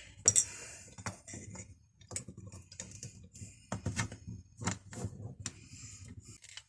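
Steel parts of an old Stillson pipe wrench clicking and clinking together as it is reassembled: an irregular string of sharp clicks and light knocks.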